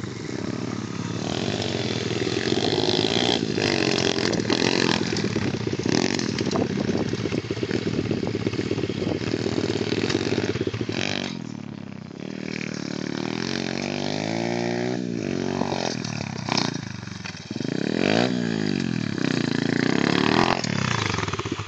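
Pit bike engine running and revving, its pitch repeatedly rising and falling as the throttle is worked, with a brief drop in engine speed about eleven seconds in.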